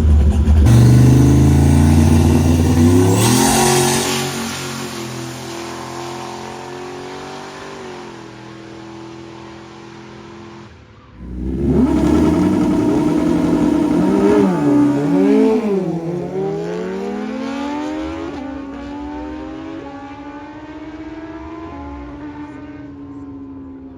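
Drag cars launching and accelerating hard down the strip, one after another. The first engine revs up with a rising pitch and then fades as it pulls away. A second car takes over, its revs swinging up and down for a moment before it too accelerates off and fades.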